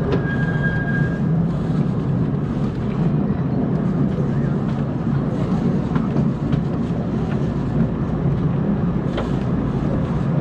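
Small 500 mm gauge park-railway train running, heard from on board: a steady rumble of wheels on track, with a thin high squeal for about the first second and a few sharp clicks scattered through.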